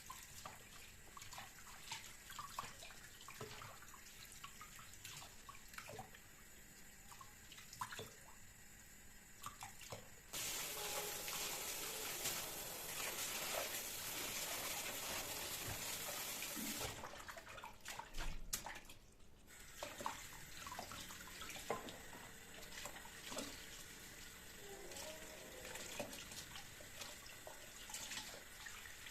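Kitchen sink tap running for about seven seconds in the middle and shut off suddenly, with small clicks and handling noises of kitchen work before and after.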